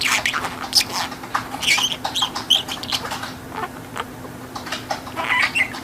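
Budgerigar chattering: a quick run of clicks and short, high chirps and warbles.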